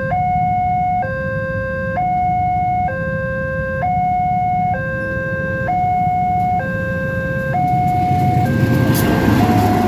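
Railway level-crossing warning alarm sounding its two-tone hi-lo signal, switching tone about once a second, over a low rumble. A train's noise swells in near the end as it reaches the crossing.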